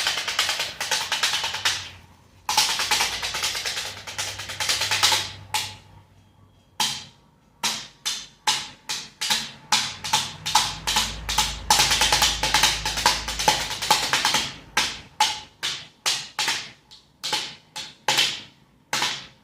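A sheet of paper held against the spinning blades of an electric fan, buzzing and rattling: first in two long runs, then in short, quick strokes played in a rhythm like a drumbeat.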